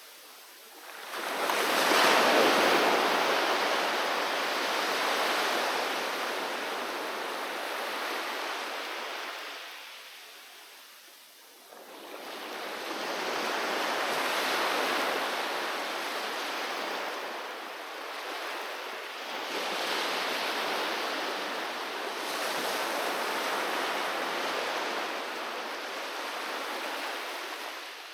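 Ocean waves breaking on the shore. A loud break comes about a second and a half in and washes out over several seconds. A second set of surf builds near the middle, rises and falls in several surges, and fades near the end.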